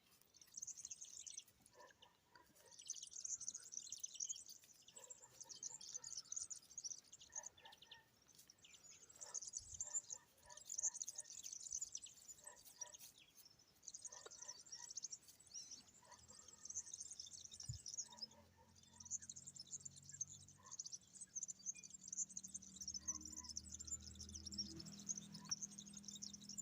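Small birds chirping and twittering in repeated bouts of rapid, high-pitched chatter a few seconds long, faint overall. A faint low hum comes in about two-thirds of the way through.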